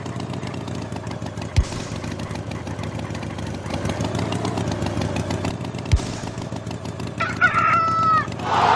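A chicken calls once near the end, a pitched gliding cry lasting about a second, over a steady low rumble that has two short thumps in it.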